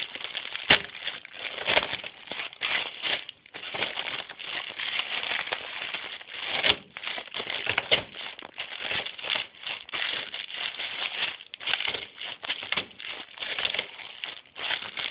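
A block of dry instant ramen noodles being crushed by hand: continuous crackling with many small sharp snaps as the noodles break.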